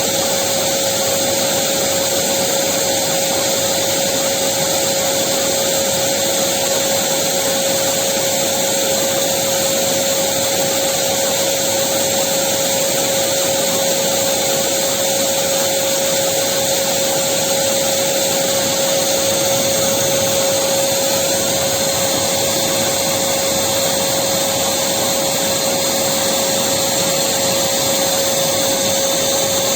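Electric vacuum cleaner running steadily: a constant motor whine with a strong single tone over a broad rushing hiss of air, unchanging.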